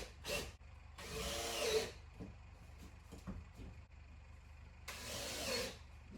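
Cordless drill driving screws in short bursts under a second long, about a second in and again near the end, fastening the plywood floor sheet down.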